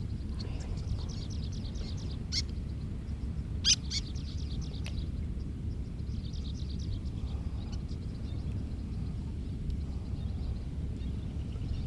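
Bird calls: bouts of quick, high, thin notes repeated in rapid runs, over a steady low rumble. Two sharp clicks come at about two and a half and about four seconds in.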